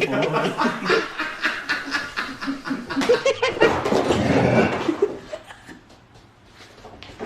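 A person laughing in quick repeated bursts of snickering for about five seconds, then dying away.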